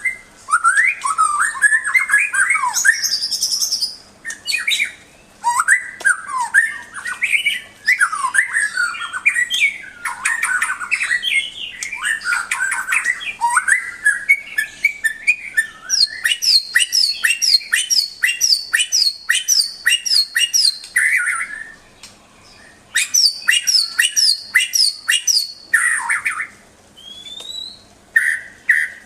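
White-rumped shama (murai batu) singing a long, varied song of rich phrases. About halfway through it switches to a fast run of sharp, high repeated notes, about two a second, then breaks off briefly and picks the run up again.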